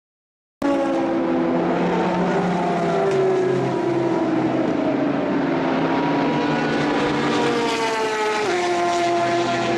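Race car engine running at high revs. Its pitch slides slowly down, then drops in one step near the end. The sound starts abruptly about half a second in, after a moment of silence.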